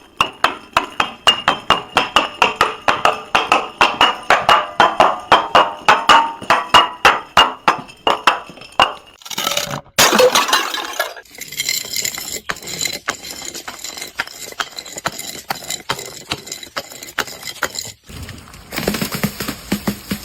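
Glass being tapped and broken: rapid, even clinks, about five a second, then a brief louder crunch about ten seconds in, followed by sparser clinks and cracks.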